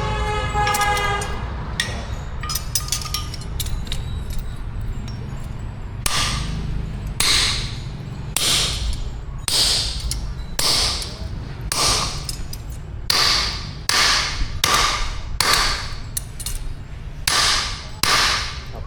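Hammer blows on metal at an anvil, about one a second from about six seconds in, after a ringing metallic tone at the start, over a steady low rumble.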